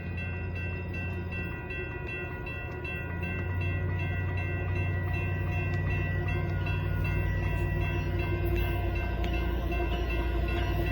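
Approaching Union Pacific freight train's diesel locomotives rumbling steadily, growing louder a few seconds in as the train nears.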